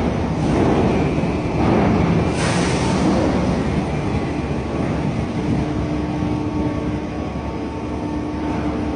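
Cargo discharging machinery on a cargo ship running steadily: a heavy, noisy rumble. A faint steady hum joins about halfway through.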